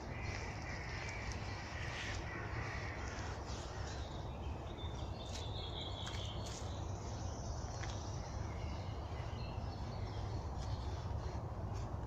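Birds calling in a spring forest: harsh calls in the first few seconds, then higher calls partway through, over a steady low rumble.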